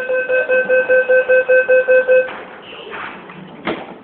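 Subway train door warning sounding a rapid electronic beeping, about five beeps a second, that stops a little over two seconds in. A sharp thud follows near the end.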